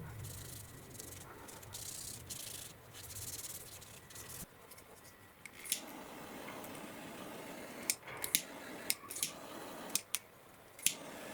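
Hand rubbing strokes of an abrasive against the knife for about four seconds, then a run of sharp clicks or taps, about eight in all.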